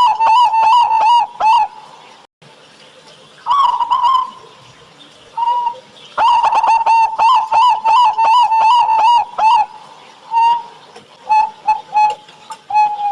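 Zebra dove (perkutut) cooing: loud runs of short, ringing coos at about six a second. The runs come in bursts broken by pauses, with a few separate coos near the end.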